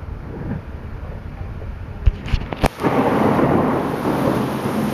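Thunderstorm: heavy rain with low rumbling. A few sharp cracks come about two seconds in, then a loud thunder rumble breaks in suddenly just before three seconds and keeps on.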